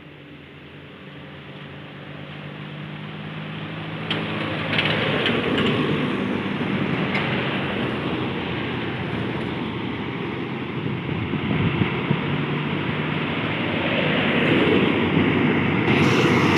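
Heavy truck's diesel engine labouring up a steep climb, growing steadily louder as it approaches. There is a sharp knock about four seconds in, after which the engine sound turns thicker and noisier.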